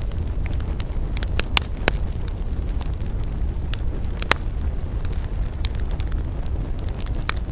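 Wood fire burning with a steady low rumble and frequent sharp crackles and pops at irregular intervals.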